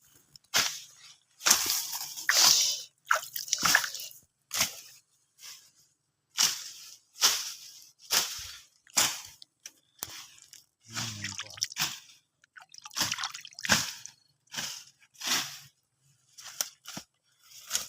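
Standing rainwater splashing and squishing in short, irregular bursts, about one or two a second.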